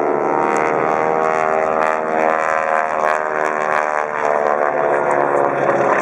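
Radial engines and propellers of North American T-6 Texan aerobatic planes droning steadily overhead.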